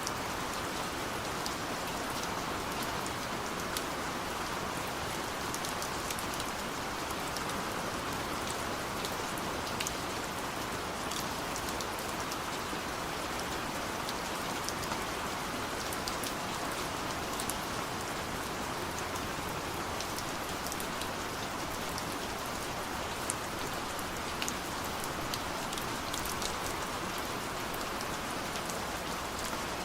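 Steady rain falling, an even hiss with many individual drops ticking on surfaces throughout.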